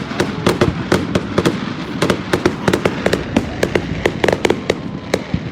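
Fireworks display going off: many sharp bangs and crackles in quick, irregular succession over a continuous low rumble, with a faint whistle falling in pitch near the end.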